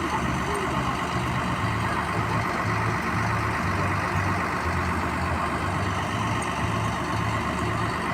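Heavy diesel vehicle engine idling, a low throb pulsing about twice a second under a steady rush.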